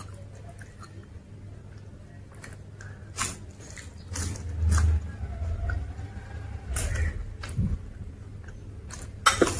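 Close-miked eating: a person chewing South Indian food such as dosa with sambar, with wet mouth sounds. Sharp smacks or crunches come several times, the loudest near the end, over low thumps that swell around the middle.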